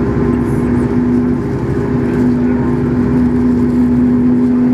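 CFM LEAP-1B turbofan on a Boeing 737 MAX 8 running steadily, heard from inside the cabin as a loud, even hum with two steady tones and no change in pitch.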